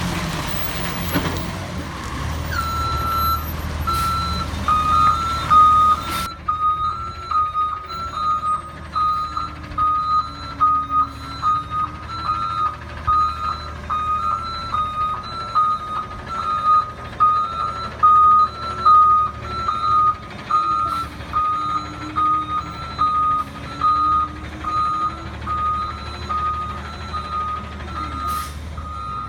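Autocar ACX garbage truck reversing, its backup alarm beeping steadily from a couple of seconds in, over the low running of the truck's engine.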